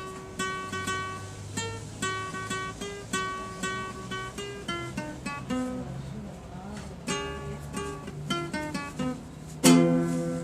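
Guitar played by hand: single picked notes in a repeating pattern, with a louder strummed chord near the end.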